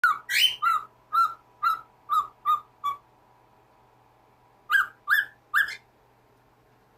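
A pet parrot calling: a quick run of about eight short, whistled calls, then three more after a pause of about two seconds.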